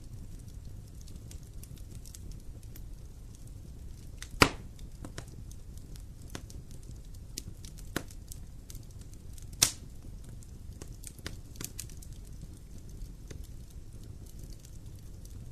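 Wood campfire crackling, with scattered sharp pops over a steady low rumble; two loud pops come about four and a half and nine and a half seconds in.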